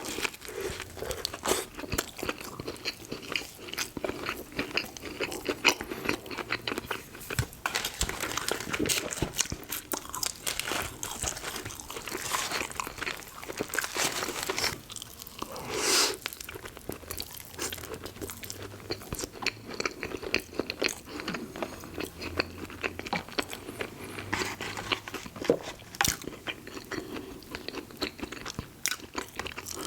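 Close-miked eating: repeated crisp crunching bites and chewing of fried food, with one louder crunch about halfway through.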